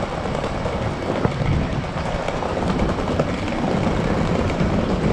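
Train running along the tracks at a railway station platform: a steady rumble with a few faint clicks from the rails.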